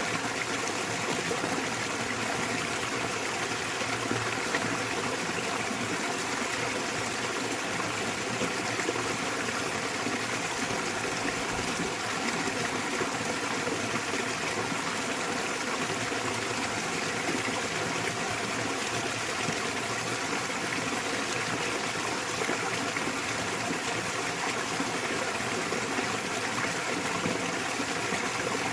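Small waterfall in a mountain stream, water splashing and rushing steadily without change.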